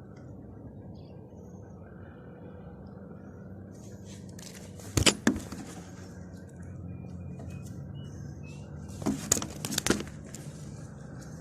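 A few sharp clicks and knocks in two short clusters, about five seconds in and again near the end, over a steady low rumble of outdoor background noise.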